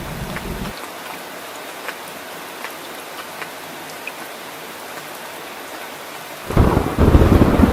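Steady rain with scattered drips, with a low thunder rumble that cuts off under a second in. A louder rumble of thunder comes in suddenly near the end.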